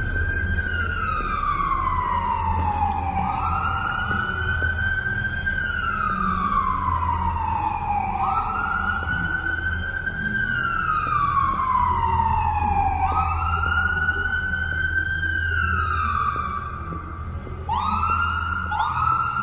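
Emergency vehicle siren wailing: each cycle rises quickly, then falls slowly over about three seconds, repeating about every four and a half seconds. Near the end it switches to two shorter, quicker rises. A low steady rumble runs underneath.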